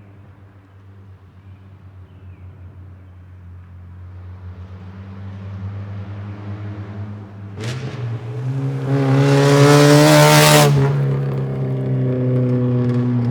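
Car with a straight-piped exhaust, its muffler removed, growing steadily louder, then accelerating hard about seven and a half seconds in. It is loudest around ten seconds, then drops back to a lower, steady note.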